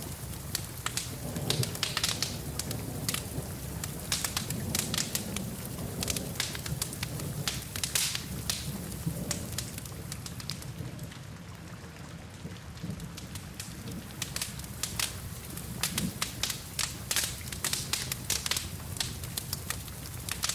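Wood fire crackling and popping, with many sharp snaps that thin out briefly about halfway through, over a steady sound of rain.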